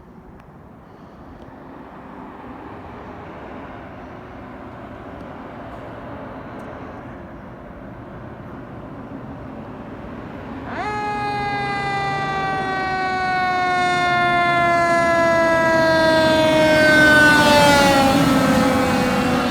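Fire truck approaching, its engine and road noise growing louder, then about eleven seconds in its siren starts with a wail that slides slowly downward in pitch, dropping more steeply near the end as the truck passes.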